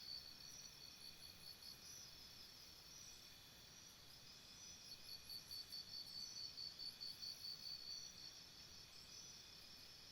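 Faint jungle insect chorus: crickets and other insects trilling steadily in several high pitches, one of them in rapid pulsing chirps that swell at the start and again from about five to eight seconds in.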